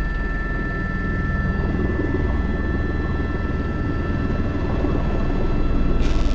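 Airbus H125 (AS350 B3) helicopter in flight: steady engine and rotor noise with a few steady high tones, growing a little louder toward the end. A short click about six seconds in.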